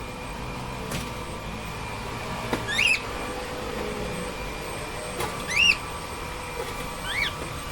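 Cockatiels giving three short chirped calls, each rising then falling in pitch, over a steady background hum.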